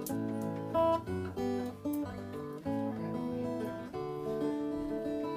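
Acoustic guitar playing the intro to a song, a run of single picked notes, with longer ringing notes near the end.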